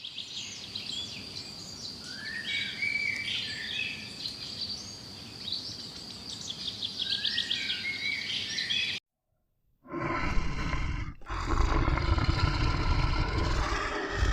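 Birds chirping and calling over a steady high-pitched tone for about nine seconds. After a sudden cut and a brief silence, a loud, deep animal call takes over.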